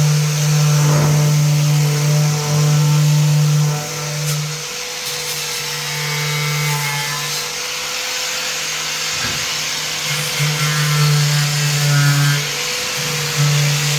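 An electric power tool running steadily, its hum breaking off briefly a few times.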